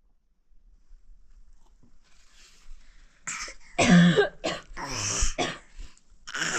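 A person coughing: a fit of several harsh coughs in quick succession, starting about three seconds in after a quiet stretch.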